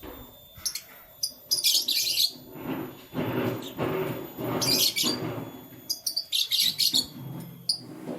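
Canaries chirping in short, quick bursts of high-pitched notes, about three bursts, with a lower noise between them.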